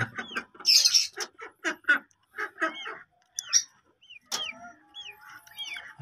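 Birds calling: a quick run of short chirps and squawks, many dropping in pitch, thick in the first two seconds and sparser after.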